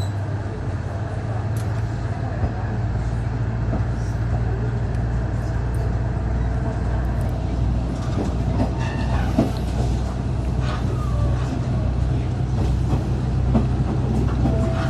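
Koumi Line diesel railcar running, a steady low engine drone under a haze of rolling noise with scattered small clicks and knocks.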